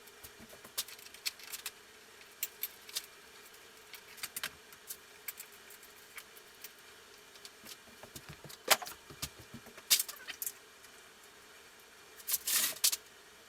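Scattered metallic clicks and clinks of hand tools and small metal parts being handled during work on a motorcycle engine. A couple of sharper knocks come past the middle, and a short jangling rattle comes near the end.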